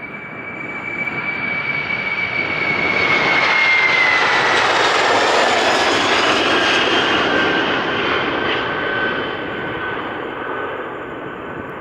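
Boeing 747-400 freighter's jet engines at take-off power as it passes, the roar swelling to a peak and then fading. A high engine whine slides down in pitch a few seconds in as the aircraft goes by.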